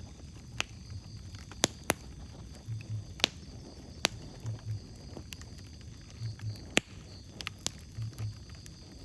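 Wood fire crackling, with irregular sharp pops, several of them loud, over a low steady hiss. A soft, low double thump repeats about every second and a half to two seconds.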